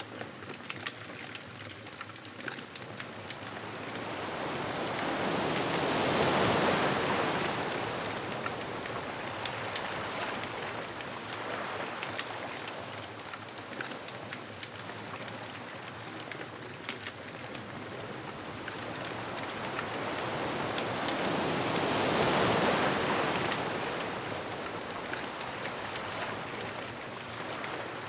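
Ocean waves surging onto a beach: two slow swells that build and break, about six seconds in and again about sixteen seconds later, with the wash of surf between them and a light crackling throughout.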